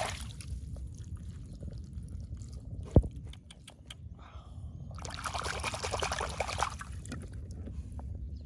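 Water sloshing and trickling, with a denser burst of splashing from about five seconds in. A single sharp knock about three seconds in is the loudest sound.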